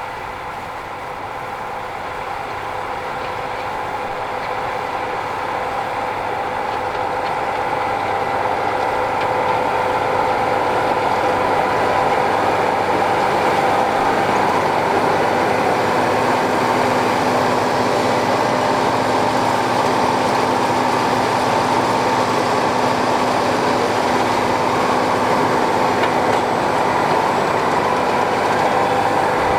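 Tractor and hay baler working in the field, a steady mechanical running with a constant whine, getting louder over the first ten seconds or so and then holding steady.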